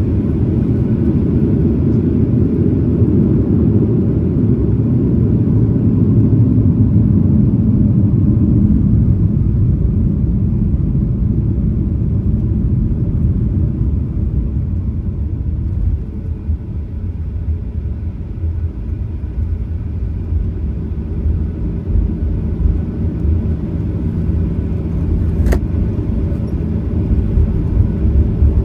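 Cabin noise inside a Boeing 737-900ER: a steady low rumble of its CFM56 jet engines and airframe, heard from a window seat. It eases somewhat about halfway through and turns a little uneven, with one brief click near the end.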